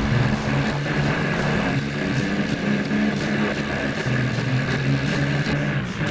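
Tractor engine running steadily, its pitch shifting a little.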